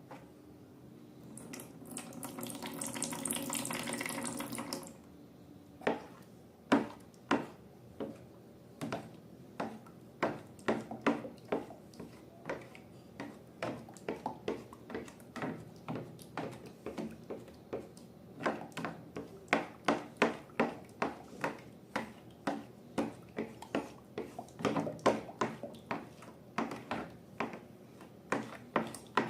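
Liquid pouring into a bowl for a few seconds, then a long run of short wet clicks and squelches, about two a second, as the slime mixture is stirred.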